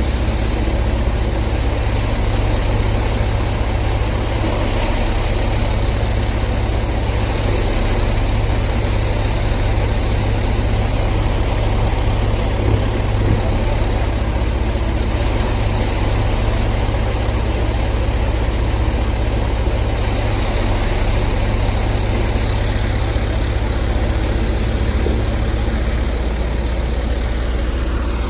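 Tractor diesel engine running steadily during paddy threshing, a constant low hum with no breaks.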